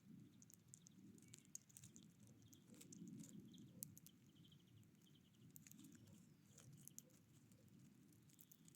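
Faint ambience of small birds at a feeder: scattered sharp clicks and taps over a low rumble, with a short run of high chirps about three seconds in.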